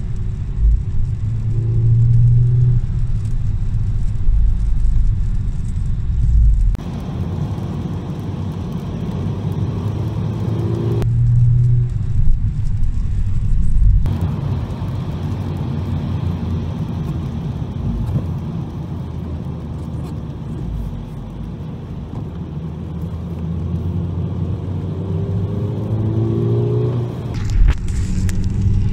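Inside a VW Golf VI GTI: its turbocharged 2.0-litre four-cylinder engine pulls hard on a wet track, with the engine note rising under acceleration several times over a steady rumble of tyre and road noise. The sound changes abruptly a few times.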